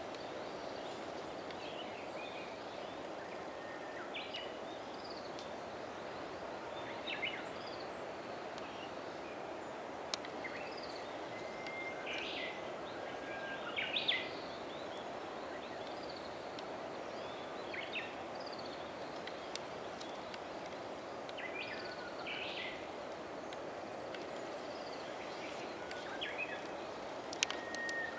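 Scattered short, high bird chirps over a steady rushing background noise; the chirps come in small clusters, the loudest about two-thirds of the way through.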